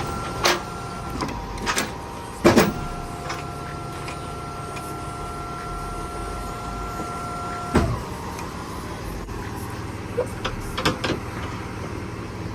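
Loud metallic clunks, then a steady electric motor whine lasting about five seconds that stops with another clunk, followed by a few lighter knocks over a low steady hum.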